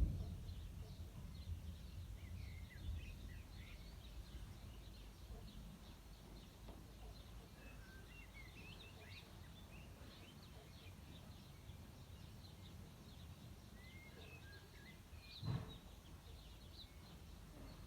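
Thunder rumbling low and fading away over the first few seconds, while small birds chirp and twitter throughout. A single short thump comes about fifteen seconds in.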